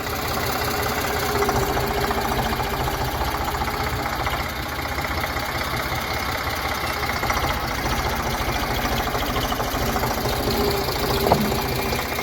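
Eicher tractor's diesel engine running steadily with an even, rapid knocking beat, with one short sharp click near the end.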